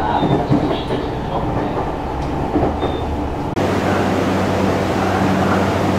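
Noise inside a JR Central HC85 hybrid diesel railcar. About three and a half seconds in, it switches abruptly to a steadier, lower hum.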